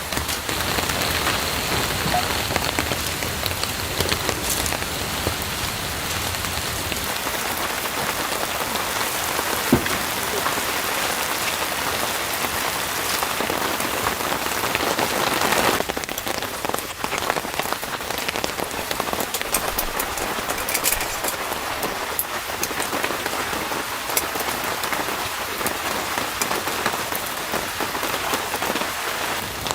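Steady rain falling, with a dense patter of individual drops ticking.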